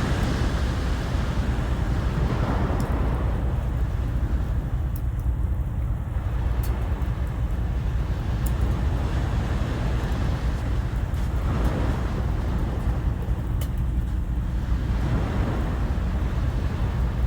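Sea waves washing in, swelling and easing every few seconds over a steady low rumble of wind, with a few faint sharp clicks.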